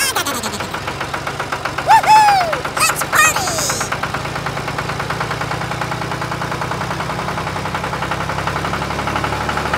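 An engine running steadily with a fast, even knocking beat, like a small tractor engine. About two to three seconds in, a few short squeaky calls that rise and fall in pitch sound over it.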